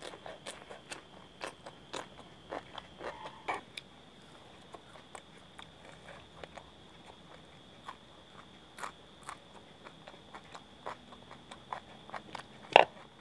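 Close-miked eating: a run of short, crisp crunches as cucumber slices and fried piyaju fritters are bitten and chewed. One much louder sharp crunch comes near the end.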